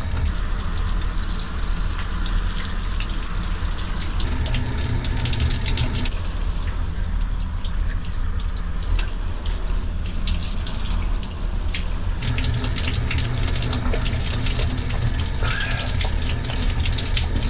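Shower running: a steady rush of spraying, splashing water.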